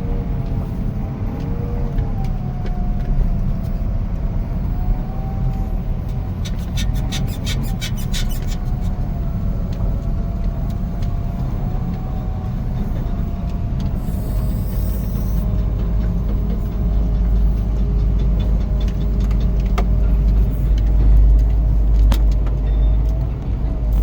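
Diesel engine of a heavy earthmoving machine running steadily with a low rumble and a faint wavering whine above it. A quick run of rattling clicks comes about seven seconds in.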